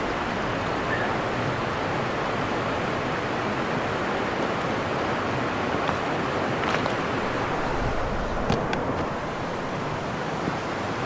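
River water rushing steadily below a small dam, an even noise with a couple of faint clicks about two-thirds of the way in.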